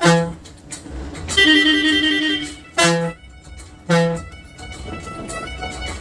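Bus horn sounding in short loud blasts, three times, with a longer warbling horn tone between them. Music from the bus's sound system plays underneath, along with the noise of the bus running on the road.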